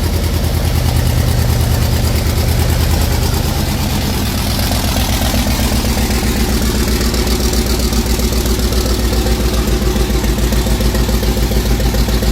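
Small JDM mini truck engine running on its first start-up. It runs a little higher at first, then settles about three and a half seconds in to a steady idle with an even, fast firing pulse.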